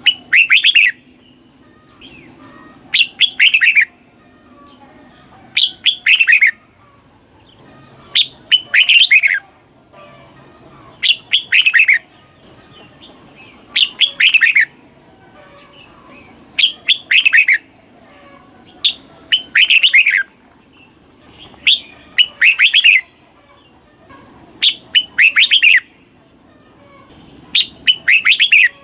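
Red-whiskered bulbul singing short, loud, repeated song phrases, one about every three seconds.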